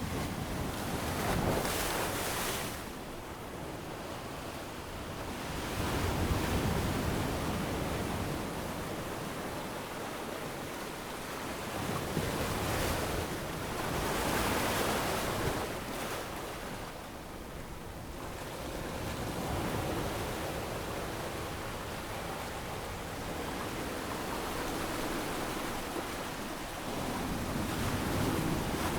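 Ocean waves breaking on a sandy tropical beach, a steady wash of surf that swells and falls back every few seconds, with wind.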